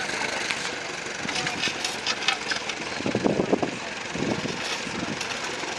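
Tractor engine running, with voices in the background.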